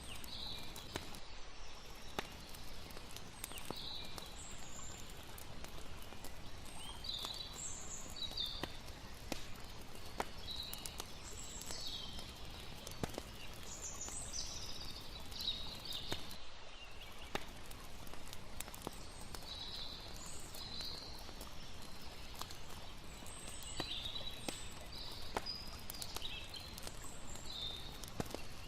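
Layered night-time nature ambience: a campfire crackling in sharp irregular pops over a low steady rush of flowing water, with short high chirps scattered throughout.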